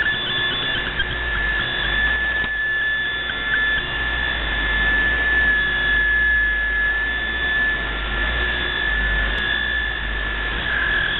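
Shortwave radio receiver tuned to 5910 kHz: steady static hiss with a continuous high whistling tone over it.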